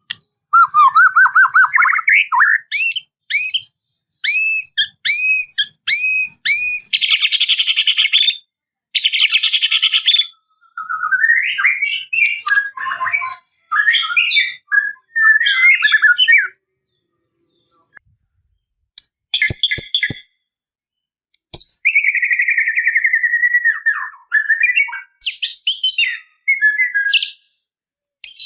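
White-rumped shama (murai batu) singing a varied song of fast trills, a run of repeated hooked whistled notes, harsh buzzy rattles and clear whistles, broken by short pauses.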